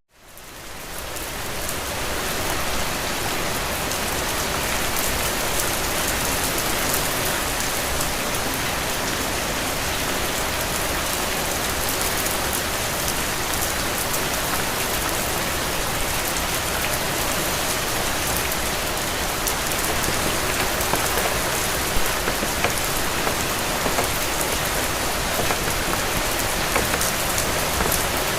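Steady rain falling on a hard surface: a dense, even hiss with scattered drop ticks. It cuts out abruptly right at the start and swells back to full level over about two seconds.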